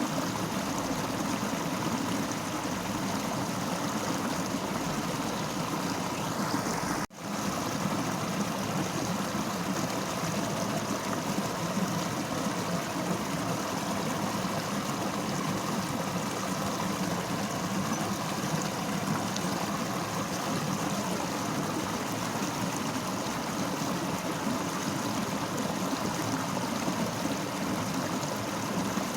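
Fast-flowing river rushing steadily. About seven seconds in, the sound drops out for an instant and comes straight back.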